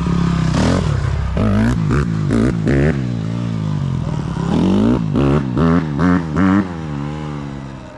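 Dirt bike engine running and being revved in quick throttle blips, two bursts of about four blips each, dropping back toward idle between them.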